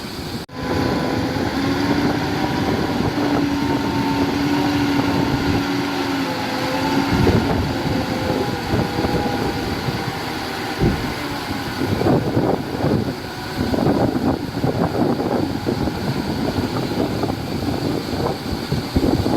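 Diesel engine of heavy earthmoving machinery running, with a steady whine over the first several seconds. Wind buffets the microphone in irregular gusts through the second half.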